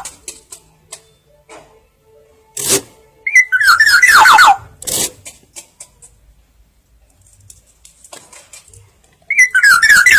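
Black-naped oriole (kepodang) calling: a loud phrase of quick whistled notes stepping down in pitch, lasting about a second, a little over three seconds in and again near the end.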